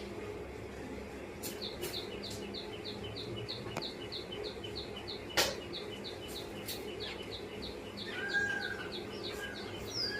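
A small bird chirping over and over, short high falling chirps about three a second, starting about one and a half seconds in. A few sharp clicks break in, the loudest about five and a half seconds in, and a lower whistled bird note comes about eight seconds in.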